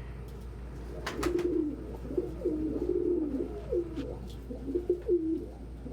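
Domestic pigeons cooing: a run of low, warbling coos, with a few sharp clicks about a second in.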